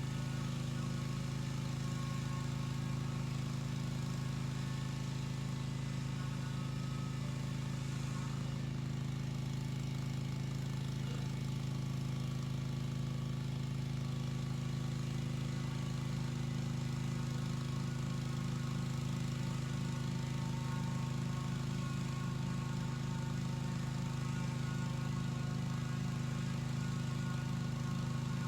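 Pressure washer's small engine running steadily at constant speed, a low even hum with no change in pitch or level.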